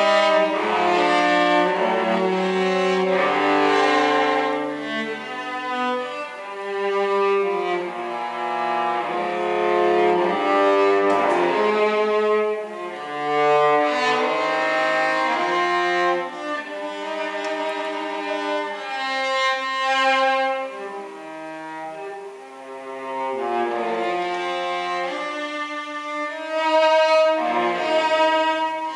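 Cello being played with the bow: a slow melody of held notes that change about every second, swelling and falling in loudness.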